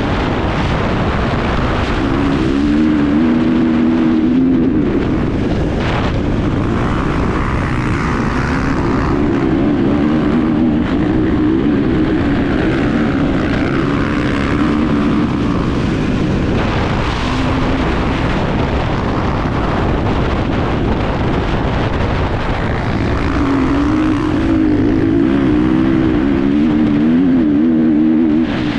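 Enduro motorcycle engine running under load as it is ridden, its pitch rising and falling with the throttle over a steady noisy rush.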